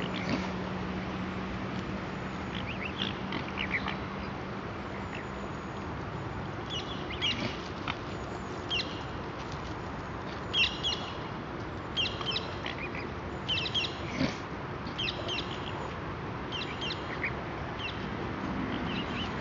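Repeated short, high-pitched bird calls, coming in quick clusters through most of the stretch, over a steady outdoor hiss.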